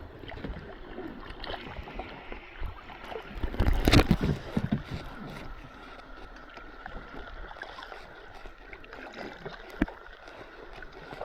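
Water splashing and lapping against a kayak as it is paddled, with a louder burst of noise about four seconds in and a single sharp click near the end.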